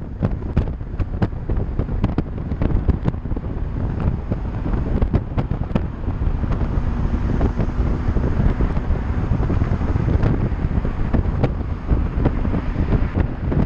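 Wind buffeting the microphone of a camera riding on a moving bicycle, a loud, low rumble, with many scattered clicks and knocks.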